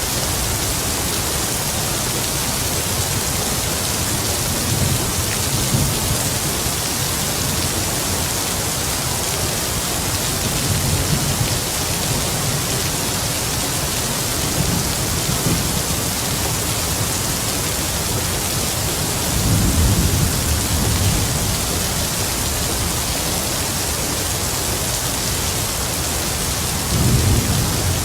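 Heavy rain falling in a steady hiss, with distant thunder rumbling low several times. The strongest rolls come about 20 seconds in and again near the end.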